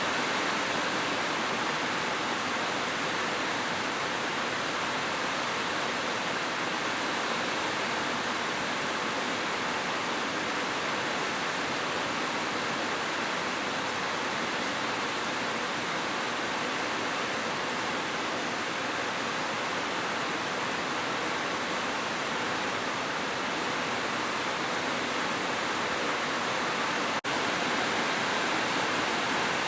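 Heavy rain falling, a steady, even hiss with no letup. A momentary drop-out breaks it near the end.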